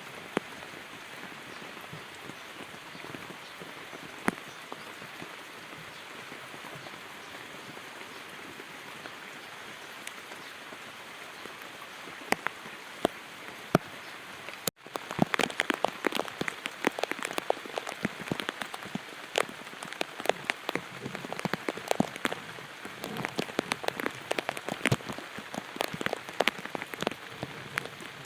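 Rain falling: a steady hiss with a few louder drops, then, after a brief break about halfway through, many close raindrops tapping in quick irregular clicks over the hiss.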